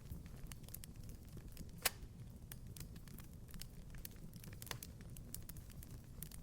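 Wood fire crackling in a fireplace: scattered small snaps and ticks over a soft low rumble, with a sharper pop about two seconds in and another near the end.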